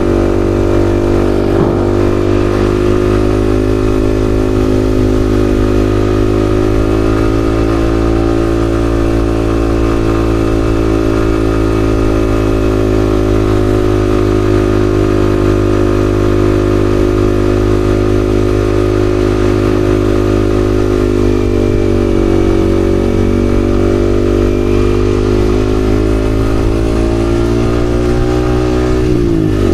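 Yamaha XSR155's 155 cc single-cylinder engine running steadily while riding, its pitch drifting slowly with throttle. Near the end the pitch dips sharply and comes back up.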